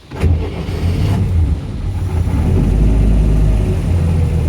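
Atomic 4 four-cylinder gasoline inboard marine engine catching on a cold start with no choke, helped by starting fluid. It fires suddenly about a quarter second in and keeps running with a steady low rumble.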